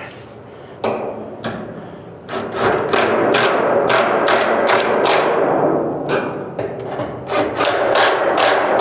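Small cordless electric ratchet ('zipper') running on a hood hinge bolt: a couple of single knocks, then from about two seconds in a fast string of sharp clacks, roughly three a second, with a brief easing near the middle.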